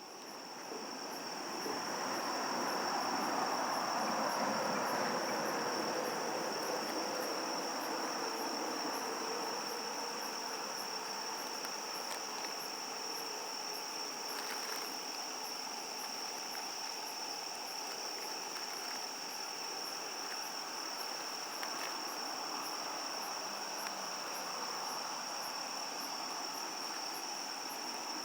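A steady chorus of summer-night insects, one continuous high-pitched trill, over a soft even hiss that swells in over the first few seconds, with a few faint clicks.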